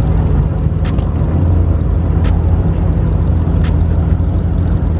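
Car engine running with a steady low rumble, and a sharp tick about every second and a half.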